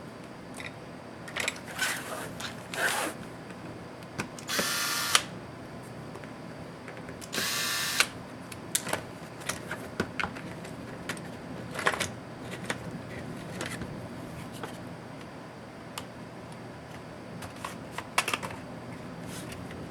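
Small electric screwdriver whirring in two short bursts, about five and eight seconds in. Scattered clicks and light rattles of small laptop parts and screws being handled.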